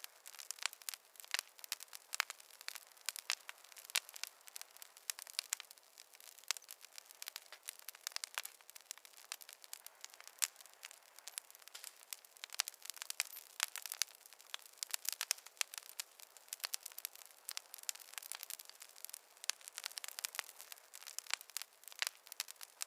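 Wood fire crackling, with many sharp, irregular pops and snaps over a faint hiss and no low rumble.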